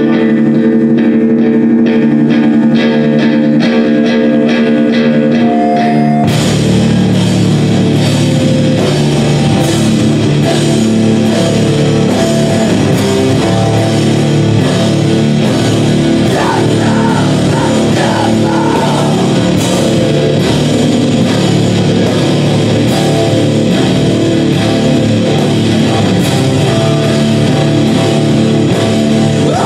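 Live rock band playing loudly: a guitar plays alone for about six seconds, then the drums and bass come in and the full band plays on in a heavy rock style.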